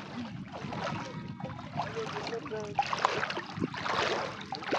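Water splashing and sloshing as people bathe, in irregular surges that are loudest in the second half, with faint voices behind.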